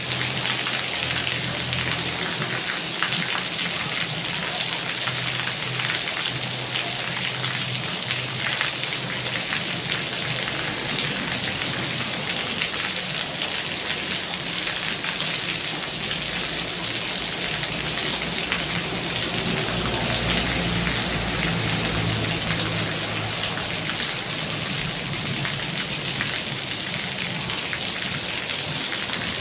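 Heavy rain falling steadily, a dense hiss of drops striking surfaces, with a low rumble underneath at times.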